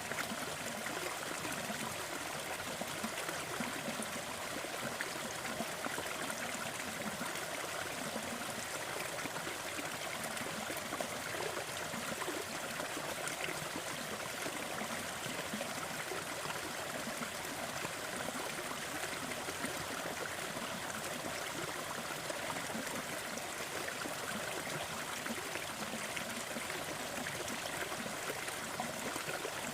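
Steady hiss of a sleep noise bed mixed with the soft crackle of a wood fire. Faint small pops are scattered evenly through it, with no changes.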